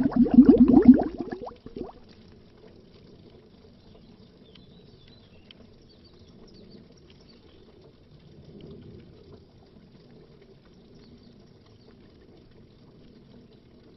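Underwater bubbles: a loud burst of dense bubbling for the first second and a half, then faint, low gurgling with a slight swell about nine seconds in.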